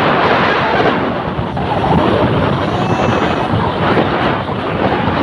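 Loud wind buffeting the microphone during a ride, a steady rough rush with no clear engine note.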